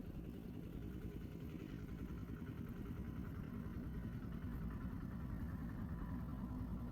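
A steady low rumble, like an engine running, growing slightly louder.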